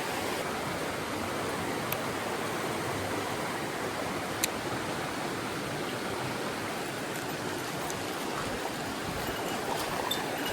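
Mountain stream water running steadily, with a couple of faint clicks a few seconds in.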